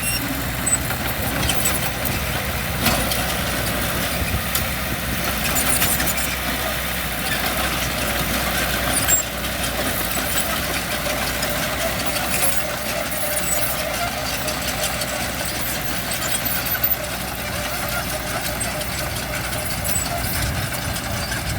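Heavy diesel construction machinery running steadily at a work site, with a few short clanks over the engine.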